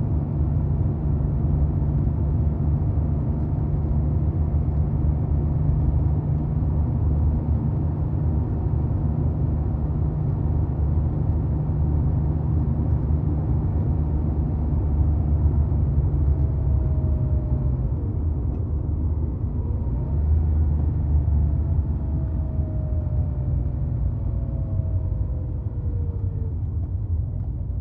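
Air-cooled flat-six engine of a 1990 Porsche 911 running steadily at an even speed, a constant low rumble with no revving.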